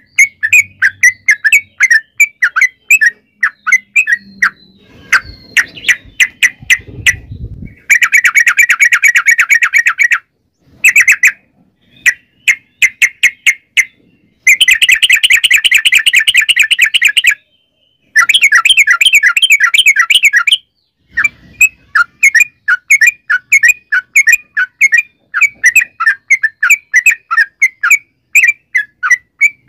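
Yellow-vented bulbul (trucukan) singing: quick repeated chirps broken by three long, fast rolling trills (the 'ropel panjang'), the longest about three seconds. A low rumble sits under the song near the middle.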